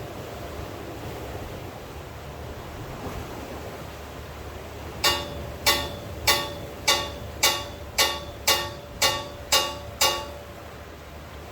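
Steady hiss of falling rain. Partway through comes a run of ten sharp ringing strikes, about two a second, each dying away quickly.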